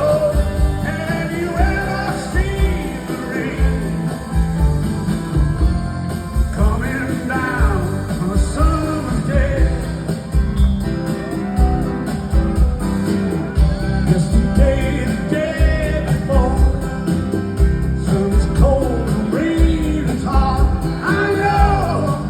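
Live rock band playing, with a male lead vocal singing over steady drums, bass and guitar.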